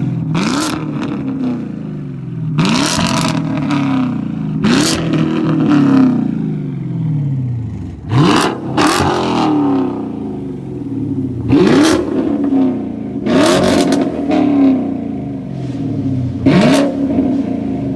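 Chevrolet Camaro's engine revved hard again and again, about nine blips, each shooting up sharply in pitch and falling back to idle.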